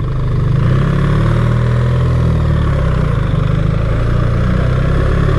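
BMW R 1300 GS boxer-twin engine running steadily at low revs, its pitch rising and dipping slightly.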